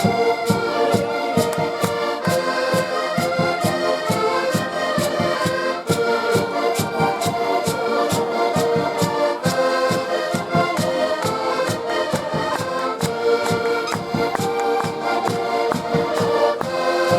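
Accordion-led Portuguese folk music with held chords and melody over a steady, even beat.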